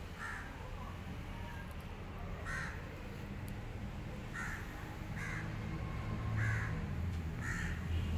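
A bird cawing repeatedly: six short, harsh caws a second or two apart.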